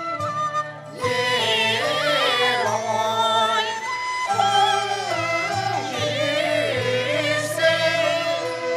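Cantonese opera singing with traditional Chinese instrumental accompaniment. The ensemble plays alone for about a second, then a voice comes in with a drawn-out, wavering melismatic line that slides up and down over the accompaniment.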